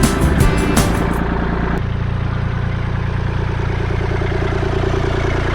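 Background music ends, then about two seconds in the sound cuts to a vehicle engine running steadily at idle.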